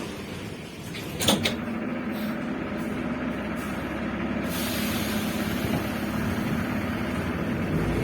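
Moscow metro carriage interior as the train moves off: a couple of sharp clunks about a second in, then a steady rumble of wheels and running gear that grows slowly louder as the train gathers speed.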